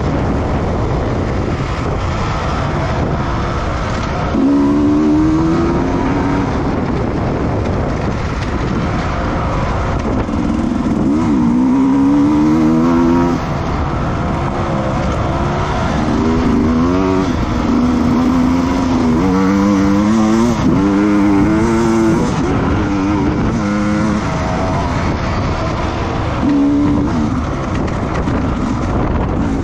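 Racing motorcycle engine heard from on board, its pitch climbing in repeated runs and dropping back as it goes through the gears, over a constant rush of wind and road noise.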